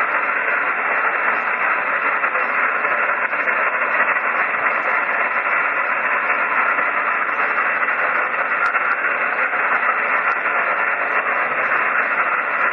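Steady static hiss from an HF single-sideband ham radio receiver left open on a net frequency, with no station clearly coming through.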